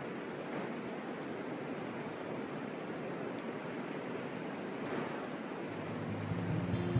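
Small birds giving short, very high, thin calls every second or so over a steady outdoor background hiss. Music fades in near the end.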